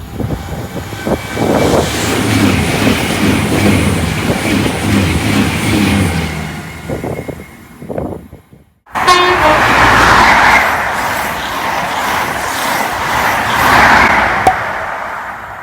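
Trains running past at speed on the main line, in two clips cut together: the first passing train dies away about eight seconds in, and a second train's noise starts abruptly about a second later.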